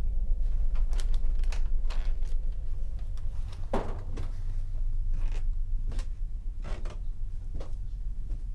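Footsteps and scattered clicks and knocks of an interior door with a metal knob being handled, opened and pulled shut, over a steady low rumble. The loudest click, likely the latch, comes about four seconds in.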